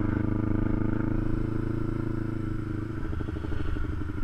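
Kawasaki Ninja 250's parallel-twin engine running steadily under way, heard from a camera mounted on the bike, its note shifting slightly about three seconds in.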